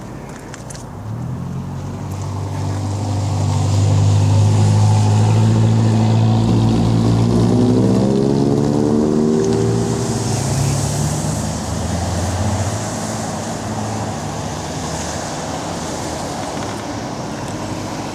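A motor vehicle's engine running, growing louder over the first few seconds and easing off after about ten seconds.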